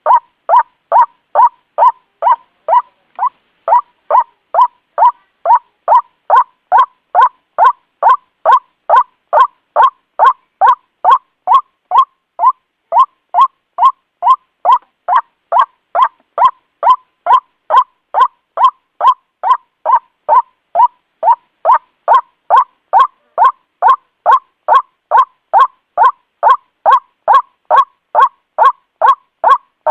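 White-breasted waterhen (ruak-ruak) calling: loud, evenly repeated nasal 'kwak' notes, about two and a half a second, with a short break near the start.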